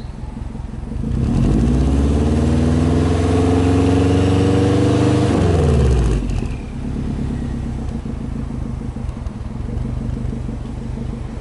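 Subaru Impreza WRX's turbocharged boxer four-cylinder engine idling, then blipped about a second in: the pitch climbs and is held for about four seconds, then drops quickly back to a steady idle.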